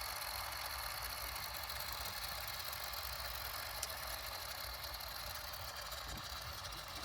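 W & J Lawley 402 cast iron cistern refilling after a flush, water hissing in steadily.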